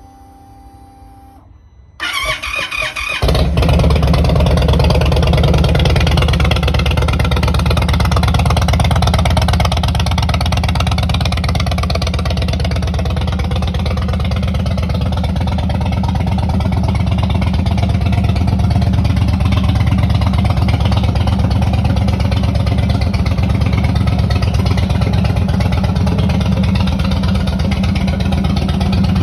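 Indian Super Chief's air-cooled V-twin engine cranked by the starter about two seconds in, catching a second later and then running steadily at idle.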